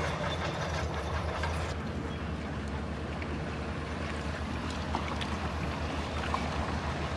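Heavy diesel engine of earthmoving machinery running steadily with a low drone, with a few faint clicks over it.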